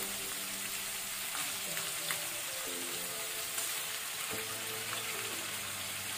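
Marinated chicken wings shallow-frying in hot oil, a steady sizzling hiss with scattered small crackles and pops.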